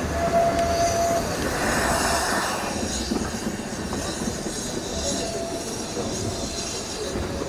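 Steam train coaches rolling along the track with a steady rumble, the wheels squealing briefly on the curve near the start and again about five seconds in.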